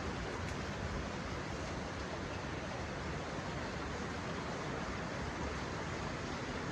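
Heavy monsoon rain pouring steadily, an even rushing hiss.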